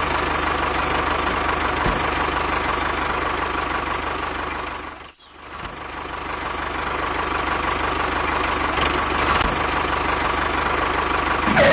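Tractor engine running steadily with a low pulsing beat. It fades out sharply about five seconds in, then builds back up and runs on.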